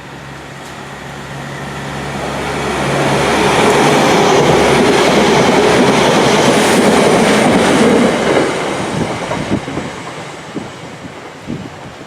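A train going by. Its rumble swells over the first few seconds, holds, then fades with scattered wheel clicks over the rails, and it cuts off suddenly near the end.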